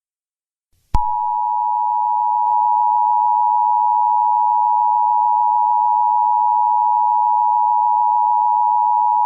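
Emergency Alert System two-tone attention signal: the 853 Hz and 960 Hz tones sounding together as one loud, steady tone. It starts about a second in and cuts off suddenly after about eight seconds, marking an emergency alert about to be read out.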